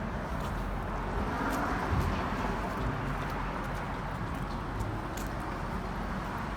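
City street ambience on a windy day: a steady wash of passing traffic and wind noise on the microphone, swelling briefly about two seconds in, with scattered light ticks and taps.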